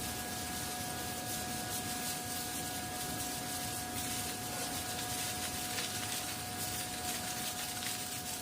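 Flake ice machine running with a steady hum and whine, over a scratchy crackling rustle of dry, hard-frozen flake ice.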